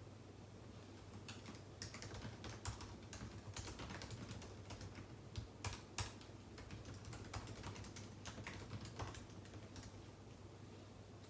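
Typing on a computer keyboard: a run of quick keystrokes that starts about a second in and thins out to a few taps near the end.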